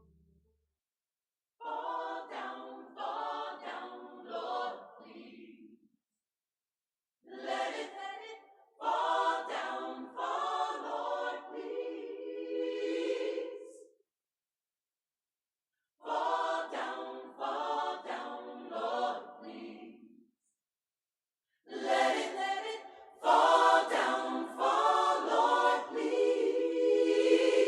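Gospel choir singing unaccompanied in four phrases with short silences between them. The last phrase is the loudest and ends on a long held chord.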